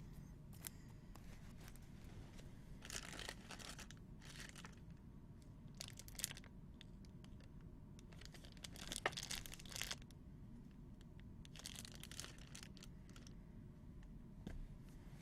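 Trading-card pack wrappers being torn open and crinkled, in several short bursts with faint clicks between.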